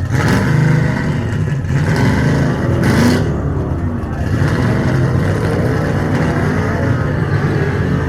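Car engine running steadily, with brief sharp noises and faint voices around it.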